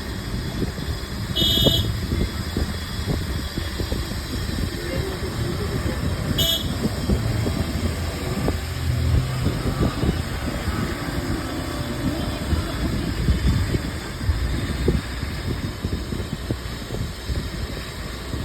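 Steady low rumble of outdoor road traffic, with two short high-pitched horn toots about five seconds apart.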